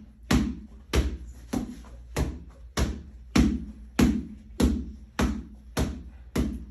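A steady, evenly spaced run of sharp thumps, a little under two a second, over a low steady hum.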